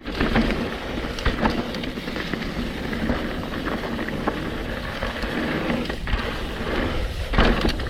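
Mountain bike riding down a dirt trail: steady tyre and wind noise on the camera microphone, with scattered sharp knocks and rattles as the bike goes over bumps.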